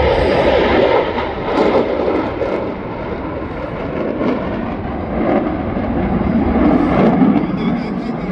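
Jet roar from the F-35A Lightning II's single F135 afterburning turbofan as it flies past, loud and rising and falling in strength.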